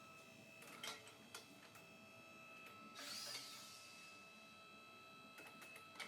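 Faint exhaust-shop work noise: a steady high whine with scattered clicks and a short hiss about three seconds in.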